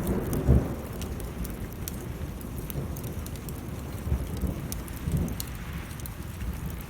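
Wood fire crackling with many sharp pops over steady rain. A low thunder rumble fades out in the first second, and softer low rumbles swell about four and five seconds in.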